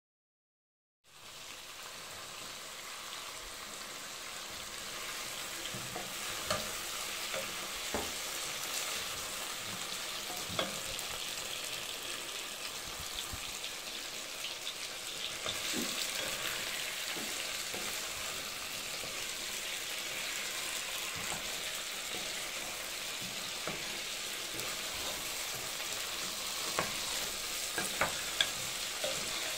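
Meat and potatoes sizzling steadily as they fry in a pot, starting about a second in, with a wooden spatula stirring and clicking against the pan now and then.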